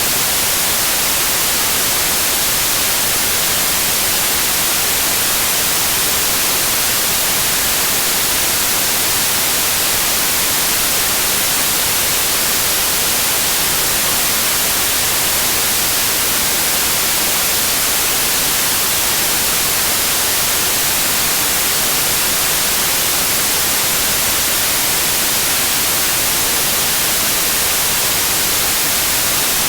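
Steady white noise: an even, unchanging hiss across all pitches.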